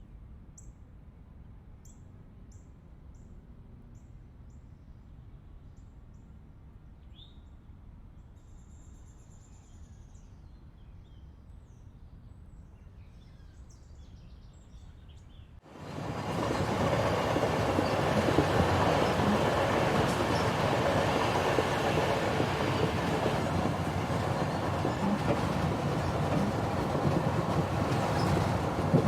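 Small birds chirping faintly over quiet outdoor ambience; about halfway through the sound cuts abruptly to a loud, steady rushing noise.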